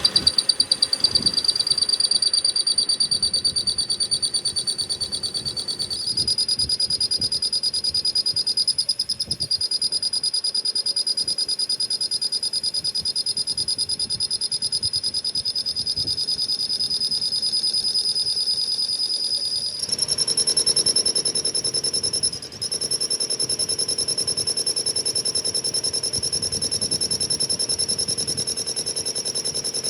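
Power tool running continuously with a steady high-pitched whine and a fast pulsing texture; the pitch steps up about six seconds in and again about twenty seconds in.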